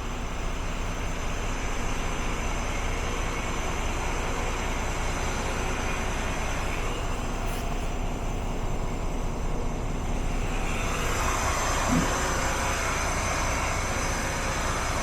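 Renault Premium tractor unit's 460 bhp turbocharged Volvo DXi diesel engine running steadily, its sound growing fuller about ten seconds in.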